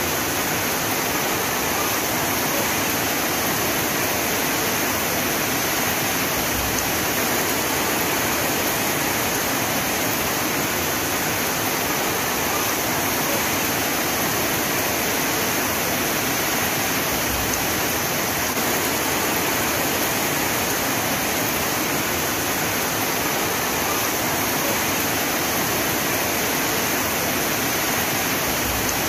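Heavy rain falling, a steady, dense hiss that stays even throughout.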